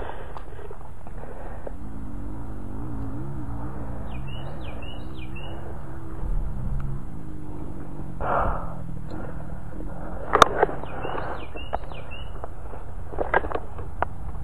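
A bird calling in short, hooked chirps, a group of about four near the middle and another a little later. Brush rustles about eight seconds in, and a few sharp clicks stand out after that, the loudest about ten seconds in.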